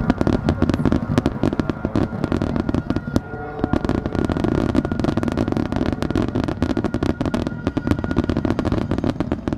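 Aerial fireworks going off in a dense barrage: dozens of sharp bangs and crackling reports in quick succession, with the display's music faint underneath.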